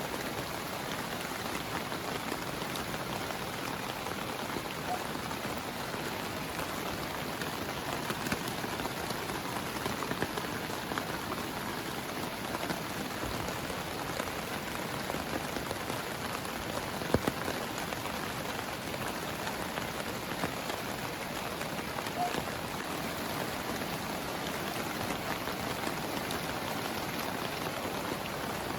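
Heavy rain falling steadily on a tent, with scattered louder drops and one sharp tap a little past halfway.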